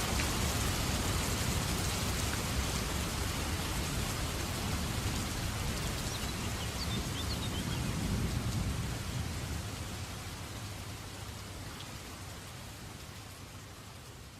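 Steady rain falling, with a low thunder rumble swelling about halfway through; the whole sound then fades out gradually over the last several seconds.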